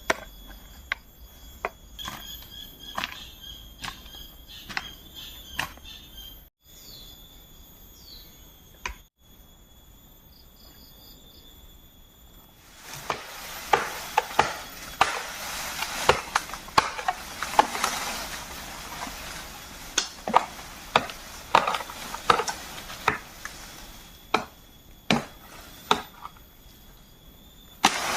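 Repeated sharp knocks of chopping on bamboo, roughly one a second, over a steady high buzz of insects. About halfway through, a steady hiss comes in under the knocks.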